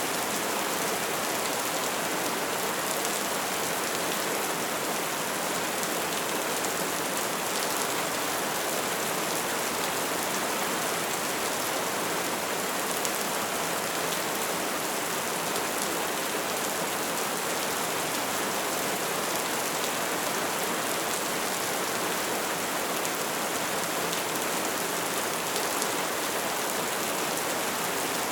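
Wood fire burning steadily: a dense, even hiss of flames with many small crackles and occasional pops.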